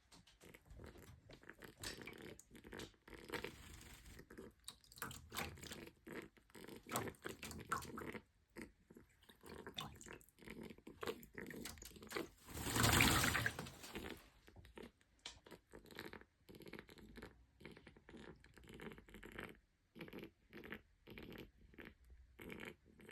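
Pet pig making a string of short, quick excited noises in the bath. The owner says they are excitement, not a breathing problem. About halfway through comes a louder burst of noise lasting a second or so.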